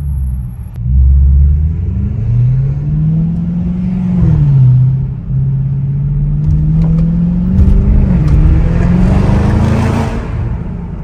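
Straight-piped Audi S7 exhaust under acceleration: the engine note rises, drops sharply at a gear change about four seconds in, then climbs again through another shift before easing off near the end. A few sharp cracks come through around the second shift.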